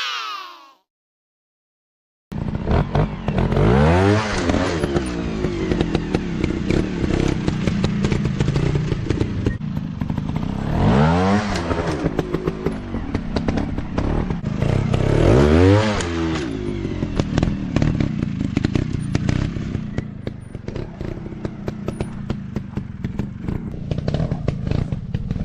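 Off-road dirt bike engine running hard over rough ground, the revs rising and falling three times, with many sharp clicks and knocks throughout. It starts after about two seconds of silence.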